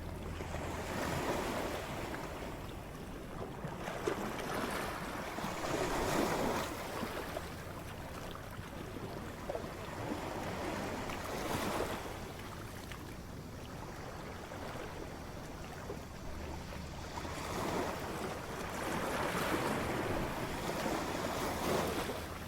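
Ocean waves breaking on a shore: a continuous wash of surf that swells and falls away several times as successive waves crash.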